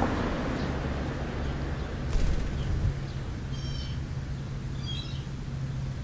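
Two short, high bird chirps, one about three and a half seconds in and one about five seconds in, over a steady low hum and rumble, with a sharp click about two seconds in.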